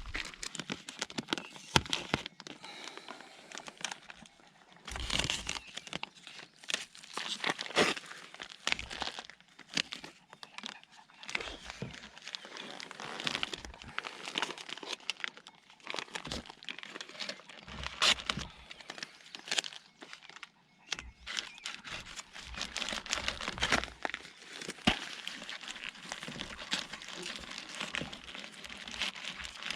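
Heavy-duty painter's tape being pulled off the roll, torn and wrapped around an exhaust pipe: irregular crinkling, tearing and crackling handling noise.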